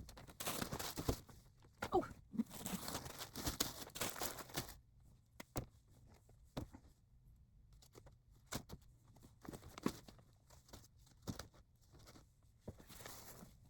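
Yarn and its packaging being handled and moved: rustling and crinkling for about the first five seconds, then scattered soft knocks and taps.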